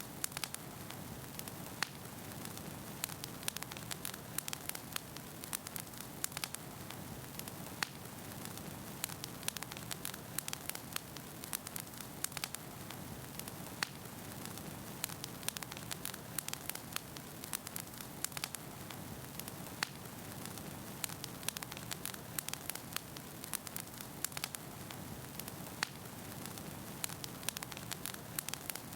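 Wood fire burning in a fireplace, with a steady low hiss and rush of flames and frequent irregular sharp crackles and pops from the burning logs.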